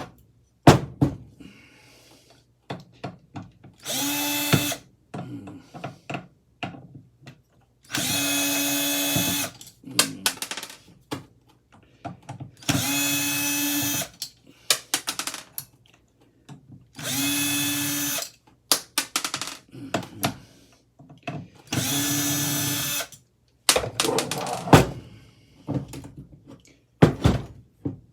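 Power drill run in five short bursts of about a second each, a steady motor whine in each, with clicks and knocks of handling between them, as it works at a stubborn screw.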